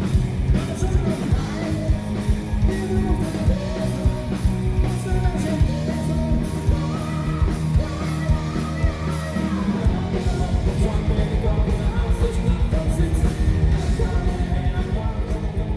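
A live band playing a rock-style party song, with sung and shouted vocals over a steady drum beat.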